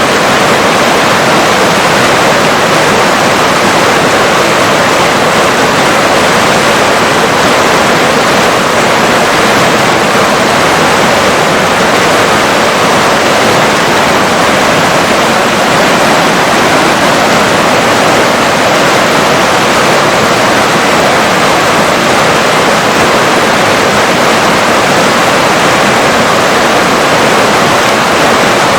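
River water rushing steadily, a loud, even flow with no breaks.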